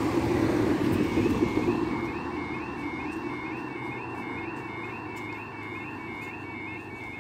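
British level crossing warning alarm starting up about a second in: an electronic tone that rises and falls, repeating at an even rate. It warns that a train is approaching and the barriers are about to come down. It sounds over a loud passing-vehicle noise that fades over the first two seconds.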